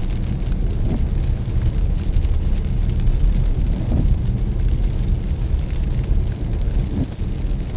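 Road noise of a car driving on a wet road: a steady low rumble, with scattered light ticks.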